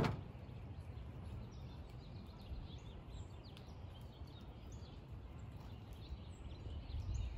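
Faint bird chirps over a low, steady outdoor rumble, with one sharp knock right at the start.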